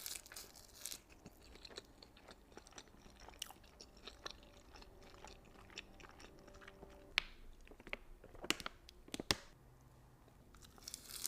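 Close-miked eating: soft chewing and crunching with wet mouth clicks, and a few sharper clicks near the end.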